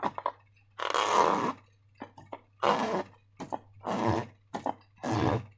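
Slime squelching as it is squeezed and worked by hand, in about eight short wet bursts with brief gaps between them.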